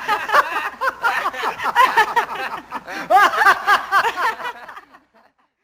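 Several people laughing together, in quick repeated bursts that fade away about five seconds in.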